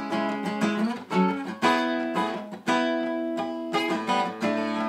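Acoustic guitar strummed and picked through a chord progression, with no voice, several chord changes and sharp strum attacks.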